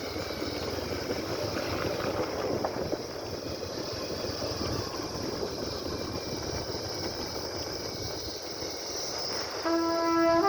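Steady rumbling vehicle noise without a clear pitch. Brass music comes in near the end.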